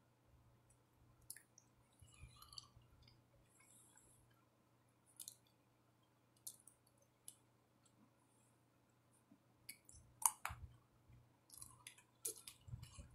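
Faint close-up mouth sounds of chewing gingerbread: scattered sharp clicks and smacks, the loudest about ten seconds in.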